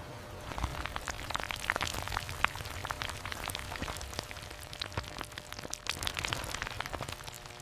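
Dense, irregular crackling: many small sharp clicks and ticks at uneven intervals over a faint background hiss.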